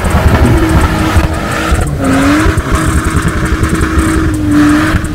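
Off-road 4x4 engine running loud under load, its revs rising and dropping a few times over a heavy low rumble.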